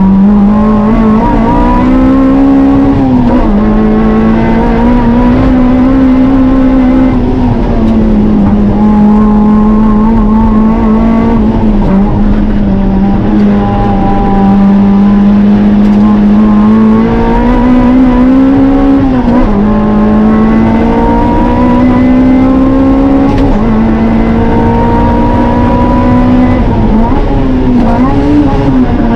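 Toyota MR-S engine running hard on a track lap, its note climbing slowly under acceleration and dropping sharply several times as the driver lifts or shifts.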